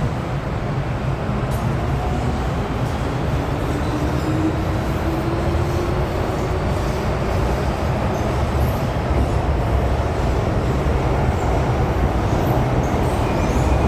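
MTR M-Train electric multiple unit running on the line, a steady rumble of wheels and track. A few seconds in, a motor whine rises in pitch.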